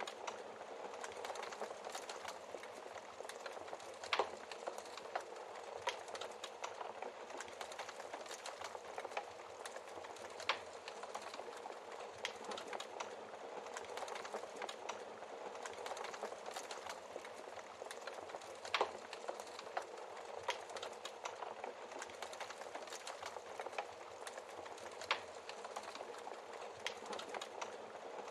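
Wood fire crackling in a fireplace: a steady hiss of burning logs with a dense run of small crackles and several louder pops spread through.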